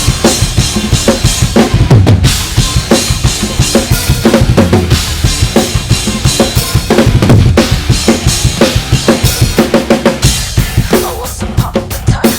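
Drum kit played hard along to a heavy metal backing track: rapid bass drum and snare hits in a dense, driving pattern, with no singing.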